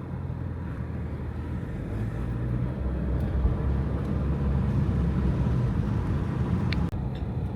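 Car cabin noise while driving on a back road: steady low engine and tyre rumble that grows a little louder about two seconds in, with one short click near the end.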